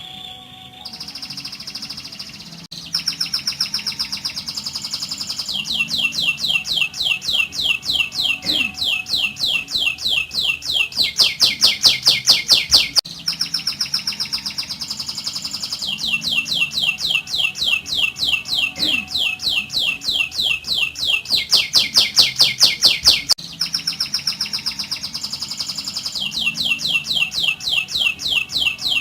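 Domestic canary singing long rolling trills (the 'ngerol' song): runs of fast repeated notes, each sliding down in pitch, with the speed and pitch changing from one run to the next. The same sequence of phrases comes round about every ten seconds.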